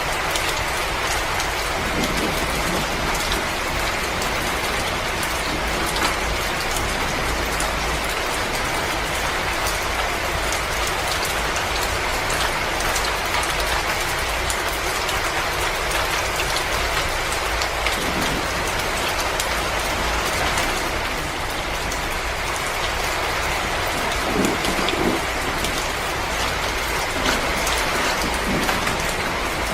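Wood fire crackling in a fireplace: a steady hiss dotted with many small crackles, and a few louder pops, the strongest cluster about twenty-four seconds in.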